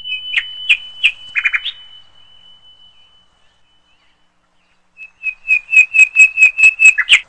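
Bird chirping and whistling. A steady high whistle with a few sharp chirps over it fades out over the first few seconds. Near the end comes a quick run of about ten loud, evenly spaced chirps, four to five a second.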